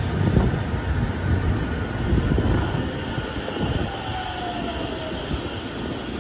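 JR Central electric commuter train, a 211 series coupled to a 313 series, running past along the platform: steady wheel-on-rail rumble with irregular clacks. A brief falling whine comes through a little past the middle.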